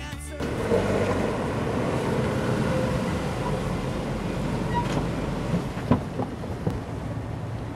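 A Ford Escape's engine running steadily as the SUV pulls into a parking space, with a few sharp clicks and knocks a couple of seconds before the end.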